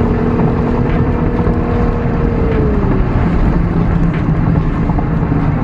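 Toyota A90 Supra fitted with a Remark full titanium exhaust, driving: a steady engine note whose pitch falls a little past halfway as the revs drop, over a haze of road noise.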